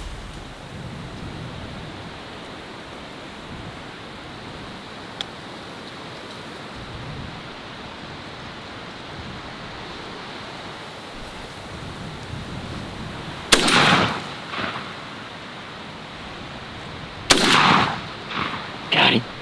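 Two loud gunshots about four seconds apart, fired at a wild turkey, over a steady outdoor hiss; the first shot missed.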